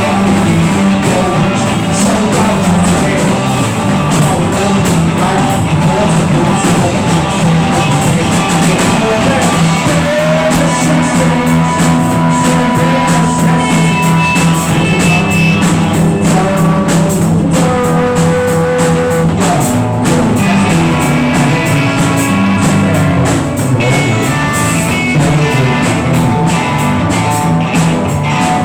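Rock band playing loud and steady: guitar and drums, with sustained melodic notes over them.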